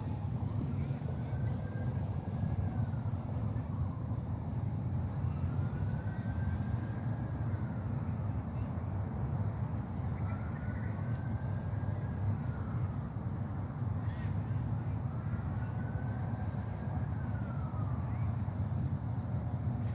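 A faint siren wailing, rising and falling slowly four times, over a steady low rumble.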